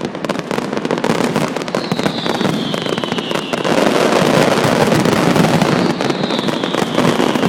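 New Year fireworks display: a dense, continuous crackle of bangs that grows louder about halfway through. Twice, a high whistle glides down in pitch over a second or two.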